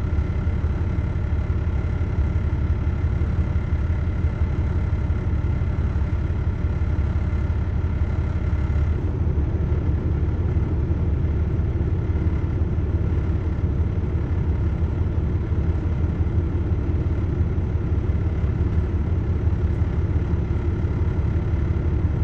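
A heavy engine running steadily during the loading of ear corn into a trailer, its upper tones dropping away about nine seconds in.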